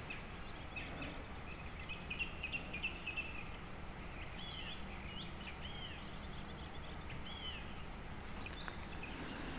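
Birds calling faintly: a quick run of chirps early on, then several short arched calls, over a steady low background noise.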